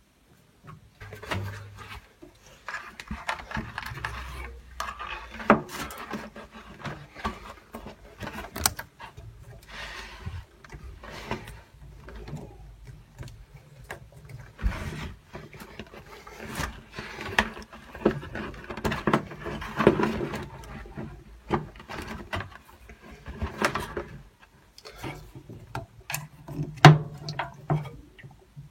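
Irregular clicks, knocks and rubbing of tools and parts being handled inside a gas combi boiler during repair work.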